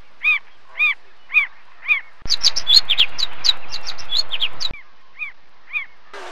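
Birds calling: one bird repeats a short call about twice a second. About two seconds in, a burst of many quick, higher chirps over a steady hiss takes over for about two and a half seconds, and then the single repeated call returns.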